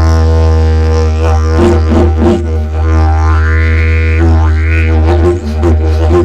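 Didgeridoo played as one unbroken low drone, its overtones sweeping up and falling back as the player shapes the sound, with bunches of quick rhythmic pulses.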